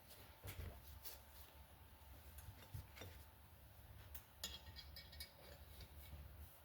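Faint metallic clicks and taps of a valve spring compressor being fitted onto a motorcycle cylinder head, about half a dozen scattered light strikes. One, about four and a half seconds in, rings briefly.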